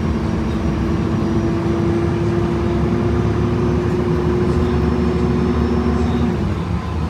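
Drivetrain of a 2011 Gillig BRT 29-foot transit bus with a Voith automatic transmission, heard from on board while under way: a steady rumble with a held tone that climbs slightly in pitch, then drops away about six seconds in.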